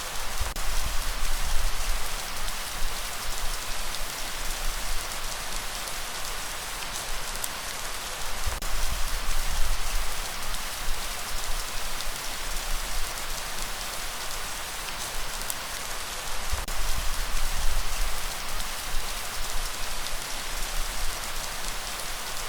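Steady rain falling, a dense even hiss of drops, with a low rumble that swells up and dies away three times.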